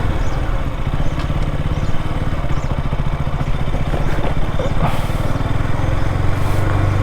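KTM motorcycle engine running at a steady engine speed while being ridden, with an even low note that holds the same pitch throughout.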